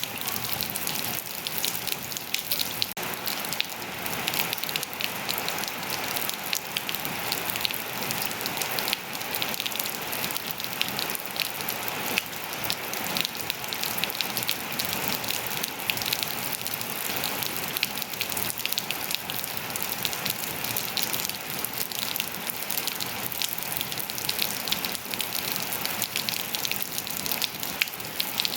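Steady rain falling on surfaces, a dense even hiss full of many small drop impacts.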